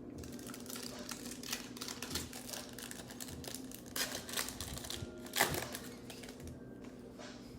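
Sports card pack being handled: a foil wrapper crinkling and rustling, with quick clicks of cards being flipped through and a louder rustle about five and a half seconds in.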